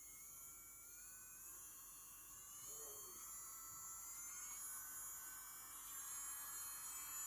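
Portable electric nail drill (e-file) running with a thin motor whine whose pitch climbs in small steps as its speed is turned up.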